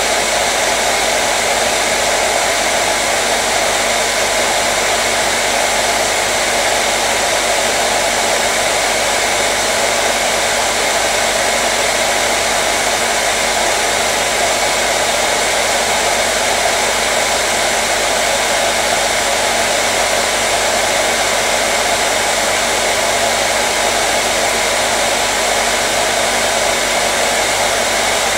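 Hair dryer running steadily, a constant loud whoosh of blown air with a faint steady motor hum underneath, used as white noise.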